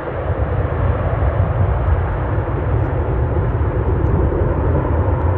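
Airbus A330 airliner on landing: a steady low rumble with a broad hiss of engine and airflow noise.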